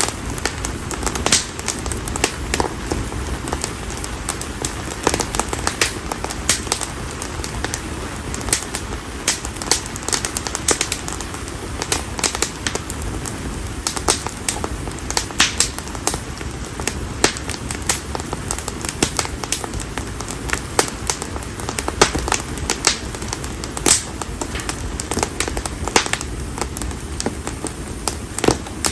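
Konara oak firewood burning in an open bonfire, crackling and popping with frequent irregular sharp snaps over a steady low rush of flame.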